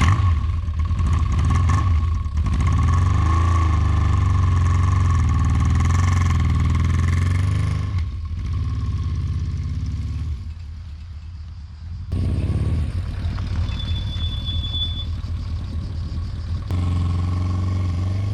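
Yamaha XJ600's air-cooled inline-four engine running on the road, mostly steady with some changes in engine speed. The sound shifts in level several times, quieter from about 8 to 12 seconds in.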